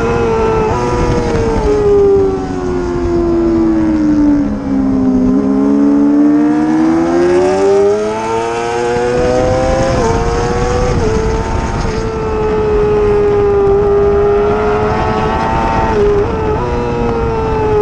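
Racing motorcycle engine running hard at high revs. The pitch drops off about four seconds in, as for a corner, then climbs back up, with brief dips at gear shifts.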